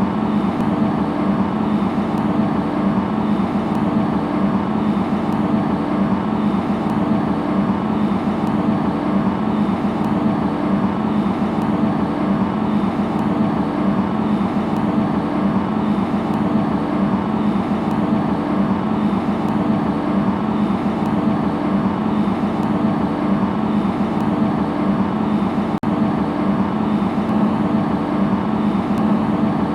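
JCB Fastrac 4220 tractor's diesel engine running steadily under load as it pulls a mole plough through the soil, a constant drone with no change in speed.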